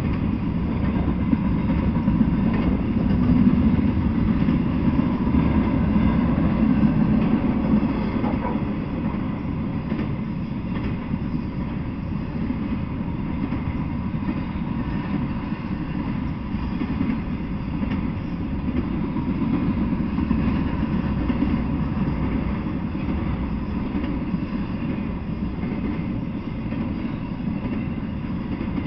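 Intermodal freight train passing, trailers riding on flatcars: a steady low rumble of the cars rolling on the rails.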